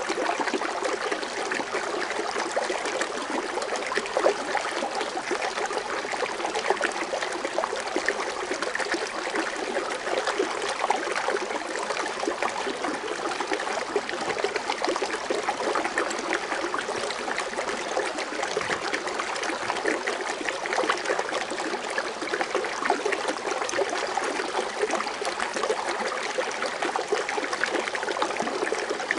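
Water fountain splashing and trickling, a steady even patter of falling water.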